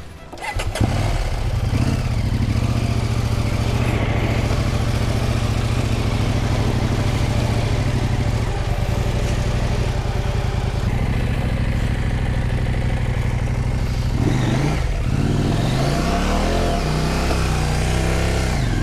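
Husqvarna Norden 901's parallel-twin engine starting about a second in, then running steadily. From about 14 s it revs up and down several times as the rider tries to get the bike moving in slick clay mud.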